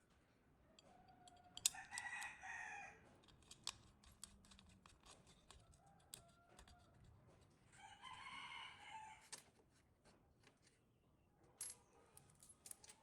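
A rooster crowing twice, each crow about a second and a half long, among scattered light clicks and taps.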